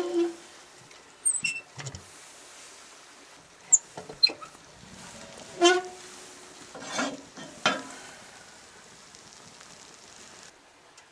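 A scattering of short knocks and clinks, a couple with a brief metallic-sounding ring, as camp gear is handled.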